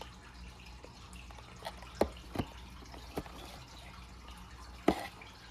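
Fish tank water trickling and dripping over a steady low hum. A few sharp clicks stand out, loudest about two seconds in and again near the end.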